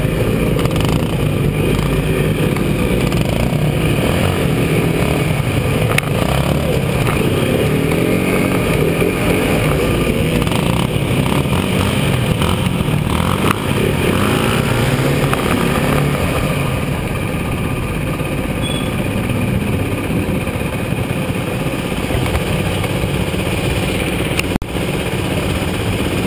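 Small 125 cc motorcycle engines running continuously, their pitch wavering up and down as they are ridden, with a brief dip near the end.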